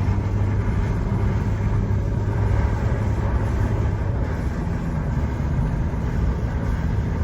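Fan running steadily beside a wood stove: a continuous low hum with a rush of air.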